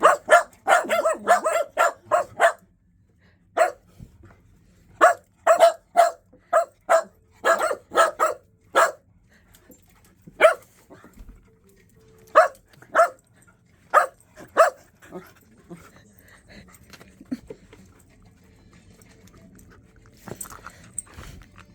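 A dog barking in quick runs of short, sharp barks, several a second, which thin out to a few scattered barks in the second half.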